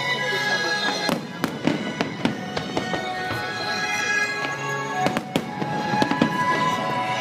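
Aerial firework shells bursting in sharp bangs at irregular intervals, over music with sustained notes playing steadily.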